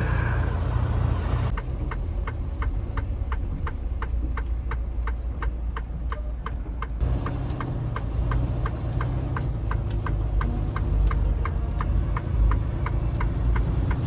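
Semi-truck diesel engine running in the cab with the turn-signal indicator ticking, about three to four ticks a second. The engine grows louder about halfway through.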